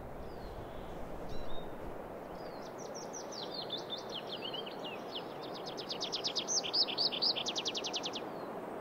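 A songbird singing one song: a varied run of quick high notes that goes into a fast series of repeated notes, about nine a second, then stops. Under it there is a steady low rushing background.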